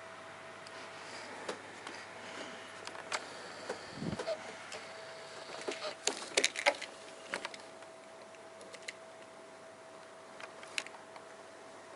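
A steady faint hum with a run of scattered clicks and knocks, loudest about six to seven seconds in, and one low thump about four seconds in.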